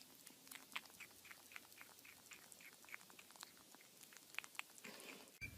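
Faint, quick soft clicks, about three to four a second.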